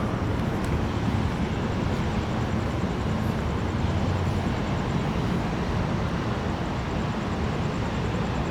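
Steady rushing of storm wind and rain, with a deep low rumble of wind buffeting the microphone.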